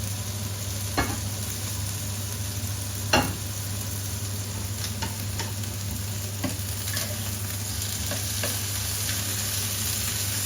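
Chicken pieces sizzling in a frying pan, with a steady low hum underneath. A few sharp clicks of a utensil against the pan, the loudest about three seconds in.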